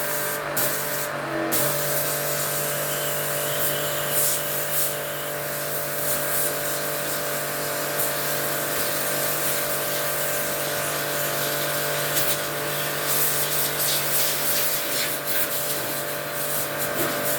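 Electric water jet pump running steadily and spraying water, with a steady motor hum under a flickering hiss of spray.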